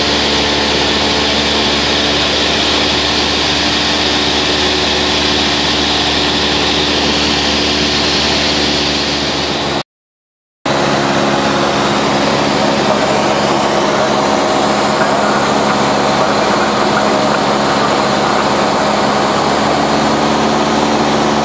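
Light aircraft's piston engine and propeller running steadily, with a brief total dropout of sound about ten seconds in.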